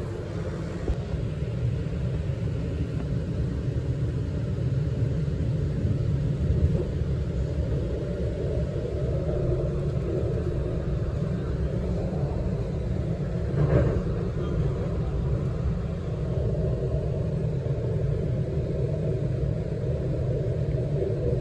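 Steady interior rumble of a Sydney Trains Waratah double-deck electric train running across a steel bridge, with one brief louder noise about two-thirds of the way through.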